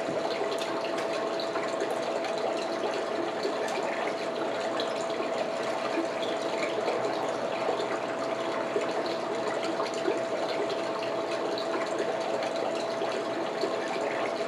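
Steady rushing background noise with a constant hum tone, with small faint clicks and smacks of king crab legs being eaten close to the microphone.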